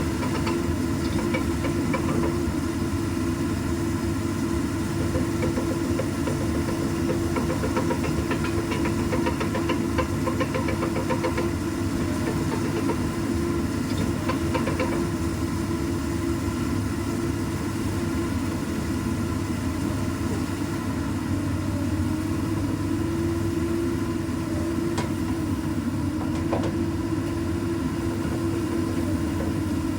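Komatsu PC200 excavator's six-cylinder diesel engine running steadily at a constant speed, with a steady pitched hum over the engine note.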